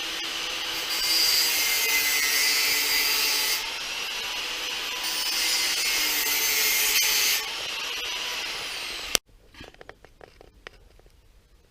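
A power tool running steadily with a high, hissing whine, its loudness shifting a few times as the load changes. It stops abruptly about nine seconds in, leaving only faint light ticks.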